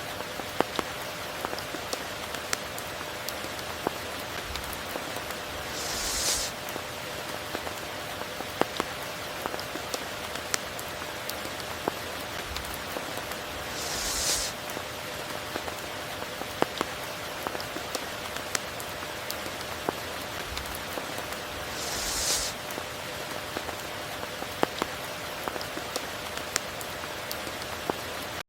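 Steady rain with many sharp individual drops striking close by. A brief, louder hiss swells and fades three times, about every eight seconds.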